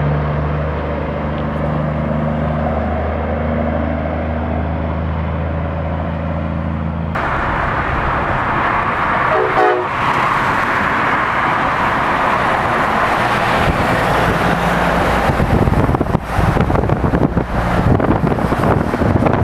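Semi-truck sounds at close range: a steady low drone of several held tones, which cuts off abruptly about seven seconds in to a loud, even rushing noise. Gusty wind buffets the microphone in the last few seconds.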